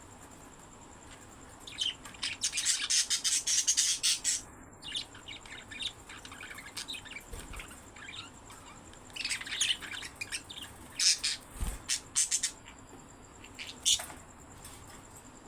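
Small pet parrots chirping and squawking in rapid, busy bouts: a burst about two seconds in, another about nine seconds in, and one short call near the end.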